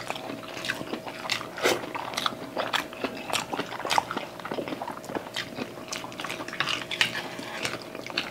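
Close-up mukbang eating sounds: chewing and wet mouth smacks and clicks as chicken adobo and rice are eaten by hand, with a few light utensil taps. The clicks come irregularly, several a second.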